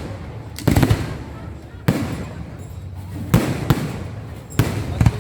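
Fireworks bursting: about six sharp bangs at uneven intervals, each followed by a rolling echo that dies away.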